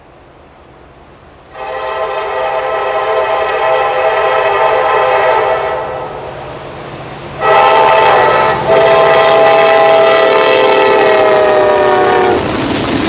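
Diesel locomotive's multi-chime air horn sounding a chord in long blasts: one starting about a second and a half in, a louder one after a short gap, broken briefly, its pitch sagging slightly before it stops near the end. A low train rumble runs underneath.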